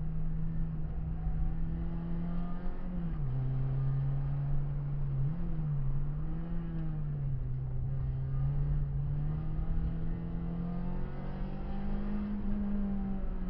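Renault Clio 16V's sixteen-valve four-cylinder engine heard from inside the cabin, running at steady mid revs under way. Its pitch drops about three seconds in, wavers briefly, climbs near the end, then falls away.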